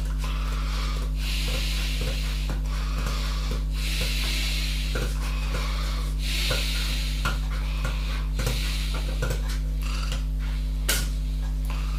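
A steady low hum runs throughout. Over it come several short scraping or rubbing noises and light knocks, with a sharper click about eleven seconds in.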